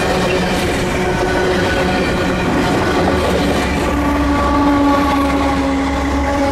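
Canadian Pacific freight train rolling past, steel wheels on rail giving several steady ringing tones over a rumble. The rumble grows heavier about two and a half seconds in, as a lower tone comes up.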